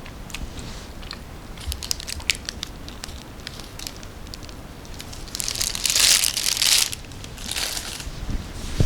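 Close-miked crinkling and crackling of snack packaging being handled. A run of sharp crackles comes about two seconds in, then a loud rustle about six seconds in and a shorter one just after it.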